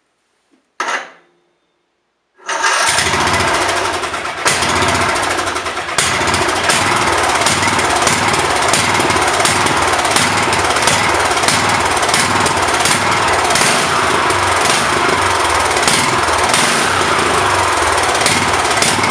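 Murray riding mower engine running loud through its new welded-up exhaust, cutting in sharply about two seconds in and then running steadily with a regular sharp ticking over it.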